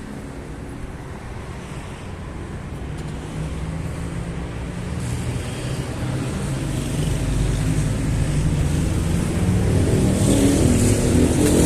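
A motor vehicle's engine rumble growing steadily louder, loudest near the end.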